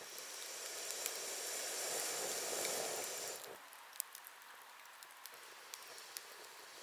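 Wood bonfire burning: a hiss with a faint high whistle, typical of steam or gas jetting from a burning log, swells for about three seconds and cuts off suddenly. Sharp crackles and pops sound throughout.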